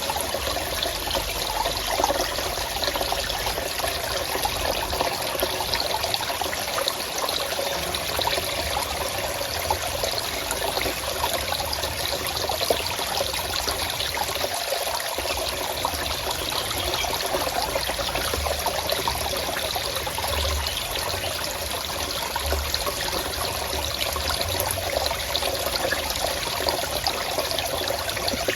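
Forest stream, water trickling and flowing steadily without a break.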